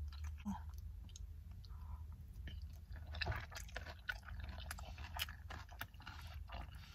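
Person chewing a mouthful of battered sesame chicken: irregular small wet clicks and crunches of chewing, close up.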